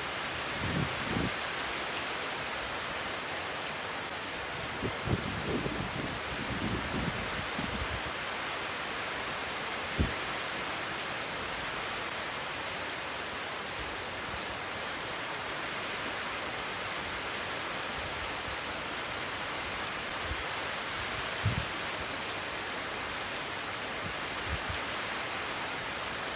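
Steady rain falling, an even hiss, with low rumbling wind gusts buffeting the microphone now and then. There is a single sharp tap about ten seconds in.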